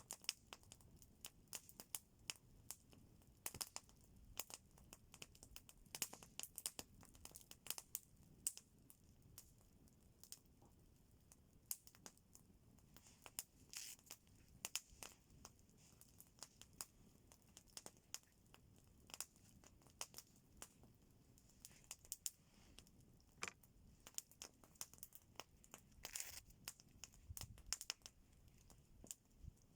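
Campfire crackling: faint, irregular pops and snaps, several a second.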